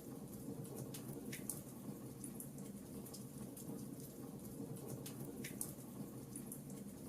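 Fireplace crackling: irregular small pops and snaps over a low, steady rumble of the fire, with a couple of sharper pops along the way.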